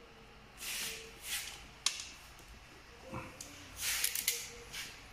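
Handling of foil-backed sound-deadening sheet: several short rustling, scraping bursts, with one sharp click about two seconds in.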